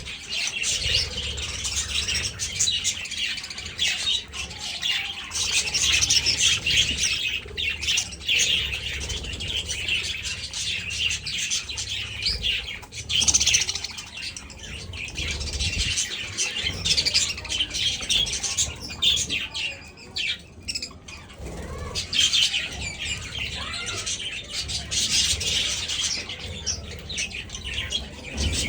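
A flock of budgerigars chattering and chirping loudly and without pause, many birds calling at once, with brief lulls about halfway through and again about two-thirds of the way through.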